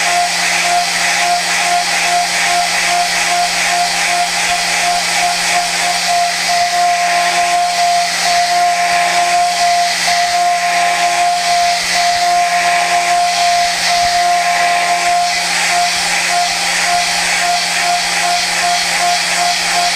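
Okuma GENOS M560V vertical machining centre high-speed milling prehardened 4140 steel with a Sandvik Coromant cutter: a steady high cutting tone over a hiss. The tone stutters in rapid pulses near the start and again in the last few seconds.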